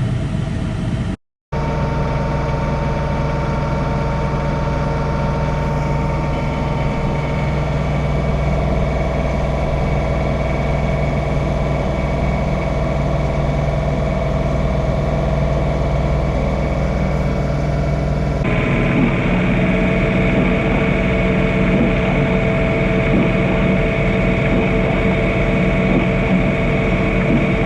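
DJI Mavic Air drone's propellers whining steadily as it climbs and hovers, several held tones over a low hum. The sound cuts out briefly about a second in; later the low hum weakens and the higher whine grows stronger.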